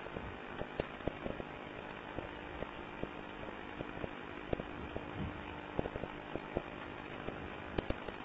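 Scattered light metallic clicks and knocks at irregular intervals as a refrigerant charging-hose fitting is handled and screwed onto a refrigerator's three-way service valve, over a steady background hiss.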